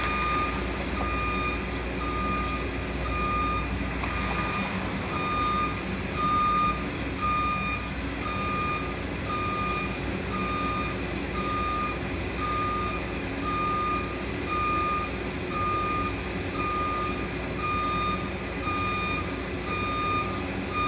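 Backup alarm on heavy demolition equipment beeping steadily, a little more than one beep a second, over a constant rumble of machinery.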